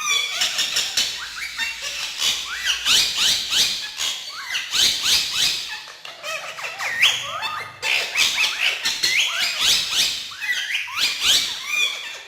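Several ring-necked parakeets calling and chattering continuously, with many short, sharp rising squawks overlapping one another.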